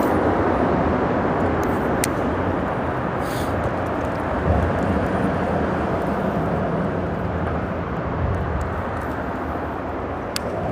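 Steady rumble of freeway traffic on the bridge overhead, with a sharp click about two seconds in and another near the end.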